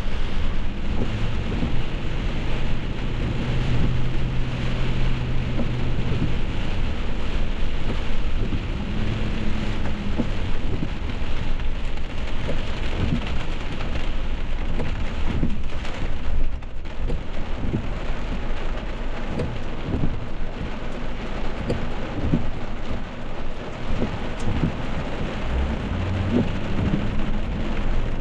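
Heavy rain falling, a steady hiss dotted with the ticks of individual drops striking a surface. Underneath runs a steady low hum that shifts pitch a few times.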